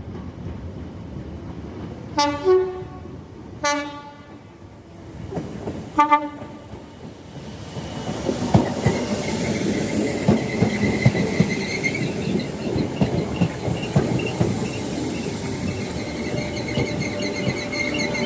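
Train horn sounded three times in short blasts, then a train running past on the rails with wheels clicking over rail joints and a high brake or wheel squeal.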